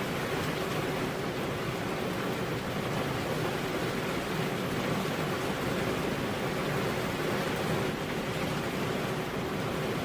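Steady rain falling, a continuous even hiss with no single drops or thunder standing out.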